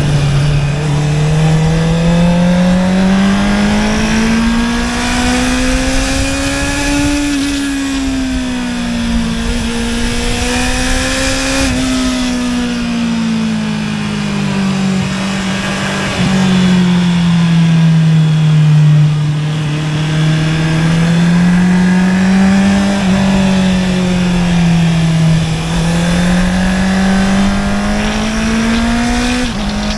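Honda CB650R's inline-four engine through an Akrapovic exhaust, pulling under load with its pitch repeatedly rising and falling. A few brief breaks with quick drops in pitch, about 12 s in and near the end, are upshifts made with the quickshifter.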